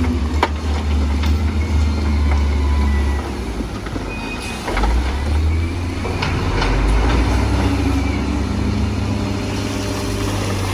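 Heavy diesel machinery engine running under load with a deep drone that eases for a moment and then picks up again, with a few sharp knocks.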